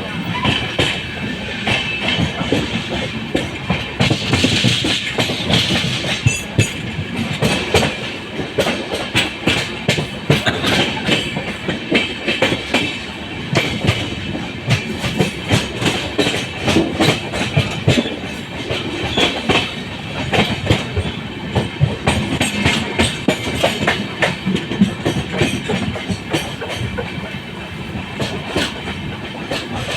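Wheels of an express train's LHB passenger coaches clattering over rail joints, many clicks over a continuous running rumble.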